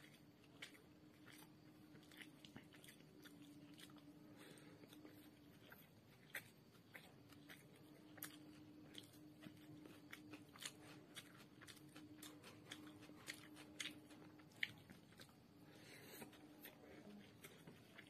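Faint close-up chewing of crisp fried chowmein noodles, with many irregular small crunches and clicks. A faint steady hum runs underneath.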